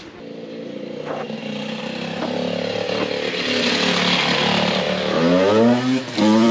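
A motorbike engine running and growing steadily louder as it comes closer, then revving up with rising pitch about five seconds in.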